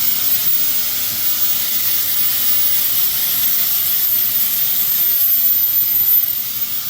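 Pneumatic air grinder running steadily: a high, thin whine over a strong hiss of exhausting air.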